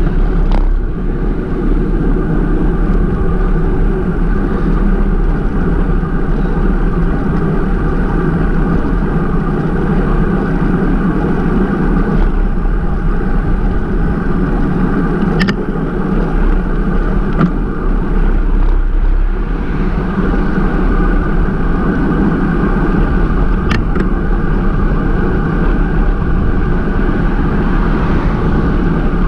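Steady wind and road rumble on an action camera riding on a moving bicycle, with a few brief clicks here and there.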